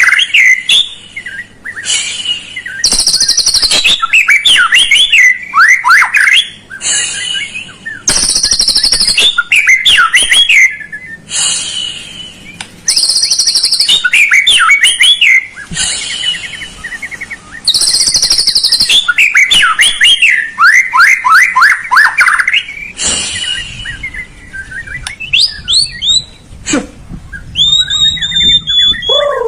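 Songbird song played as a lure recording to get a caged murai to sing: quick series of rising and falling whistled notes, alternating every couple of seconds with harsh buzzy bursts. Near the end it changes to a few separate clear sweeping notes.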